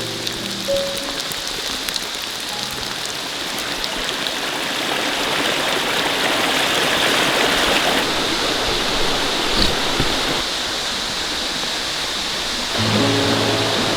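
Steady rain falling, an even hiss that swells louder through the middle, with a few sharp drip-like knocks about ten seconds in.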